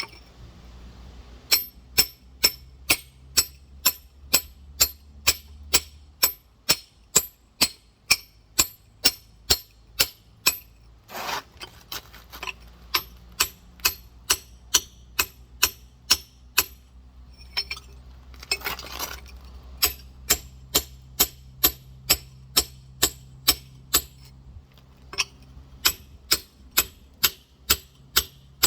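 Rock hammer tapping steadily on a giant geode to crack it open, sharp ringing clinks about two to three a second, with a few short pauses.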